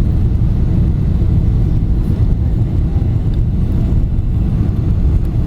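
Airliner cabin noise: a steady low rumble of engines and rushing air heard from inside the passenger cabin during the landing.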